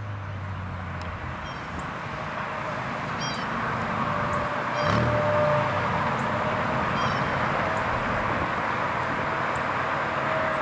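Porsche 997 Carrera's flat-six with an aftermarket exhaust: a low exhaust note fades out in the first second, and the engine gives a brief rev about halfway through. Under it a rushing noise builds steadily, with a few short high chirps.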